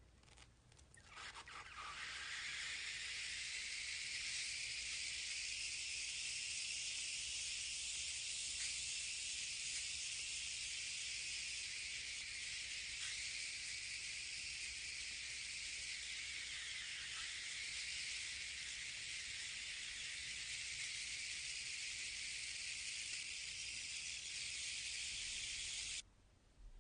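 Steam hissing steadily from the jets of a Hero's engine (aeolipile). It builds up over the first couple of seconds and cuts off suddenly near the end.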